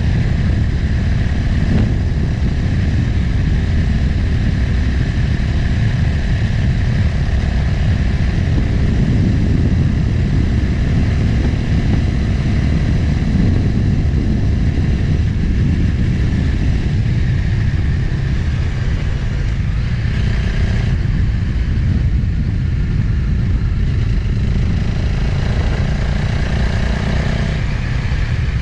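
Motorcycle engine running under way, with heavy wind rumble on the microphone; the engine note shifts pitch a few times.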